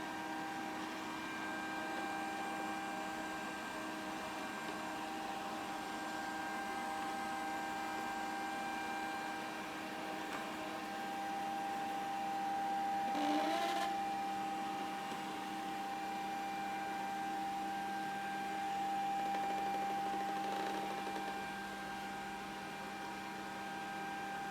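Grundig VCR 2131 robot vacuum running: a steady machine whine made of several held tones, with a short rising sweep about halfway through.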